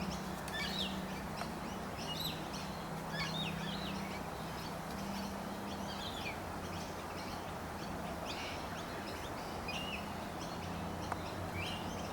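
Backyard birds chirping: short, sharp calls about once a second over a steady low hum.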